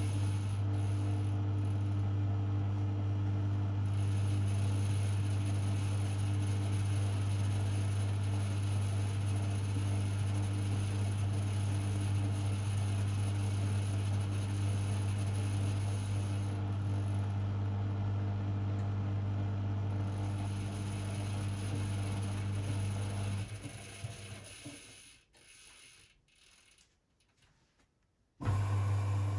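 Privileg 5020 front-loading washing machine running with a steady low hum. The hum dies away about four fifths of the way through, then starts again suddenly just before the end.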